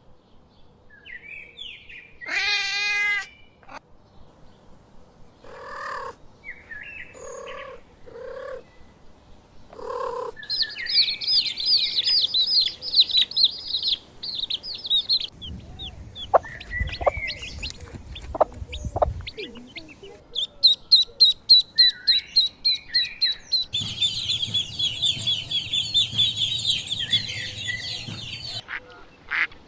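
Small birds chirping in rapid high runs, with a few short animal calls in the first ten seconds.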